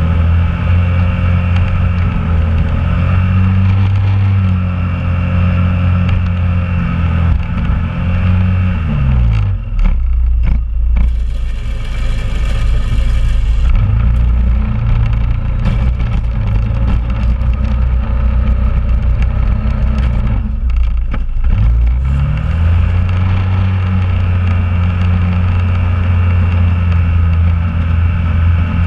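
2001 Honda Rubicon ATV's single-cylinder engine running steadily. Its revs drop about nine seconds in and pick up again a little past twenty seconds. A brief hissing noise comes while it runs low.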